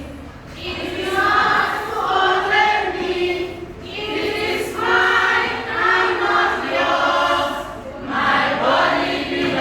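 A group of voices singing together, in phrases a few seconds long with short breaks between them.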